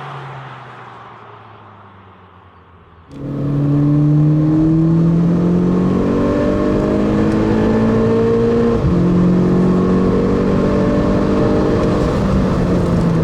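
VW Polo GTI 1.4 TSI four-cylinder engine through a Supersprint full stainless exhaust, accelerating hard. A fading engine sound gives way about three seconds in to loud full-throttle acceleration whose pitch climbs steadily, drops at an upshift about nine seconds in, then climbs again.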